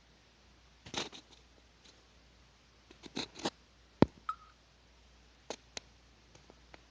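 Handling noise: scattered clicks and knocks in a small room, loudest a single sharp knock about four seconds in.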